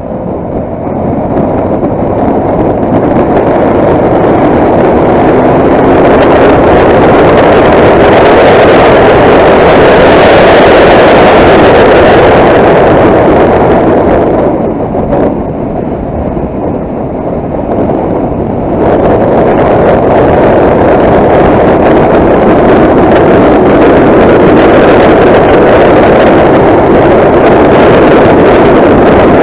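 A motorcycle on the move: loud wind rush and engine noise, easing for a few seconds about halfway through, then rising again.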